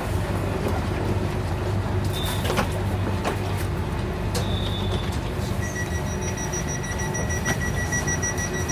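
Steady low hum of an airport rail link train carriage, heard from inside, with a few light clicks and knocks. About two-thirds of the way through, a thin, steady high tone comes in and holds.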